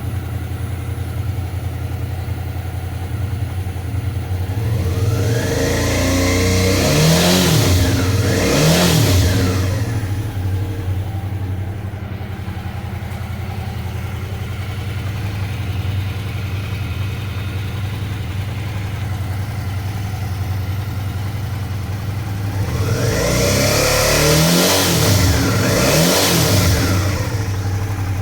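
Suzuki V-Strom 650's V-twin engine idling, blipped twice about five seconds in and twice more near the end, the revs rising and falling each time. This is a test for a metallic rattle near the engine at about 5,000 rpm, caused by a loose footpeg bracket vibrating; with the bracket removed, the rattle is softer.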